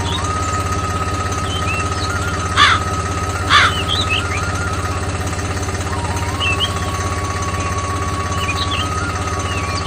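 An engine running steadily at an even idle-like pace, with short high chirps scattered throughout. Two brief loud sounds come about two and a half and three and a half seconds in.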